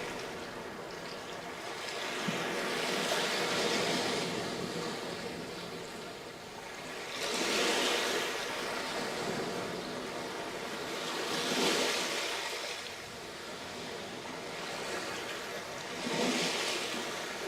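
Sea waves breaking on a sandy beach, a steady hiss of surf that swells with each breaker about every four seconds, four times.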